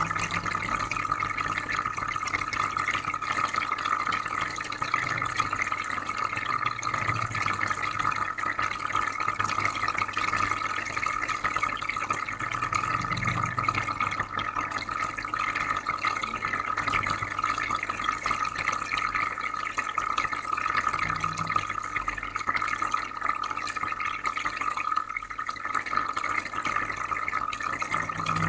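Aquarium filter running: steady bubbling, trickling water over a low, constant electrical hum.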